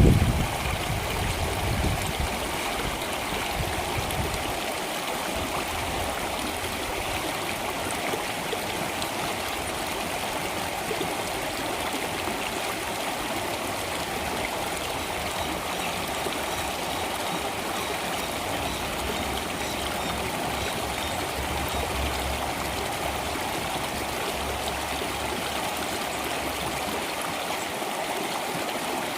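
Flowing stream water, a steady, even rush with no music, with a brief low rumble in the first couple of seconds.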